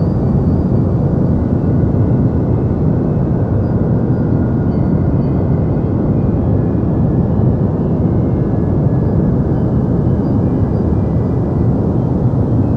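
Deep white noise: a steady, even rush of noise with most of its weight low down and little hiss on top, unchanging throughout.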